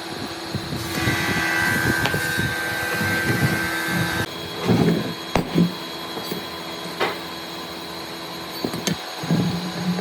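A small power tool runs with a high whine for about three seconds and then cuts off suddenly. Scattered knocks and clicks of wood being handled follow.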